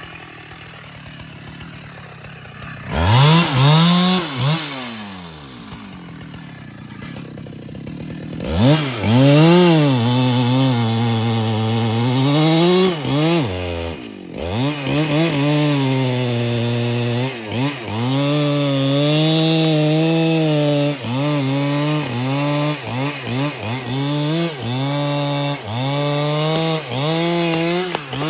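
Husqvarna 395XP two-stroke chainsaw revving up and down several times, then held at high revs while cutting wood. The engine speed dips briefly about once a second as the throttle eases.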